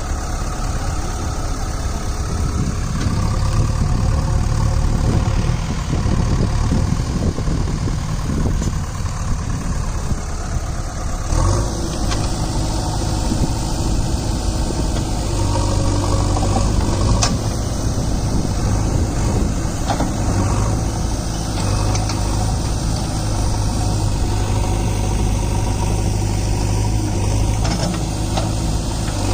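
JCB 3DX backhoe loader's diesel engine running steadily as the machine works, its note shifting about eleven seconds in, with a few sharp clanks along the way.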